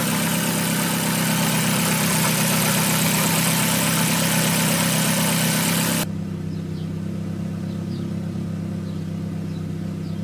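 Great Wall Florid's engine idling steadily with its fuel injectors freshly cleaned, running right after a misfire and rough-idle fault. A loud steady hiss sits over the engine and cuts off suddenly about six seconds in.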